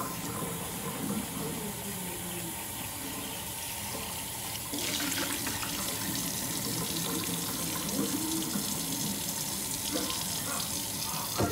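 Tap water running steadily into a sink, the flow getting louder about five seconds in, then shut off abruptly at the end.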